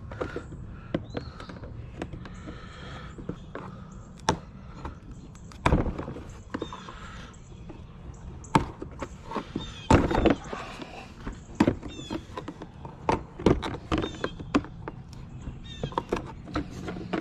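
Irregular knocks, clicks and clatter of a plastic bumper cover and its trim pieces being handled and pried apart, with a few heavier thunks. Short high chirps sound faintly in the background.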